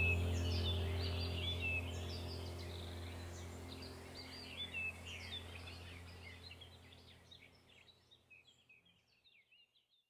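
Birds chirping and twittering in quick, busy song over a low, steady musical drone; both fade out together until all is silent near the end.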